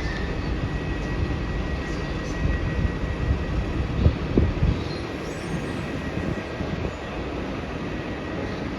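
Jet airliner's engines running at takeoff power, a steady, dense roar heavy in the low end. There are two brief low bumps about four seconds in.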